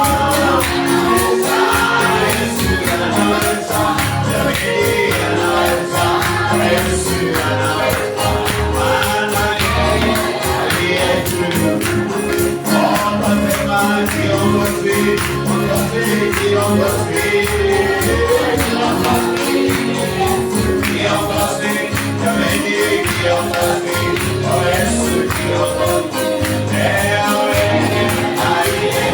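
Group of voices singing a gospel praise-and-worship song, with a tambourine keeping a steady beat over a band's bass line.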